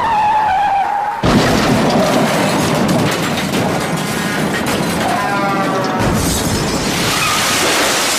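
Tyres screeching, then a sudden loud car crash with shattering glass about a second in, over music; a second screech and impact follow near the end.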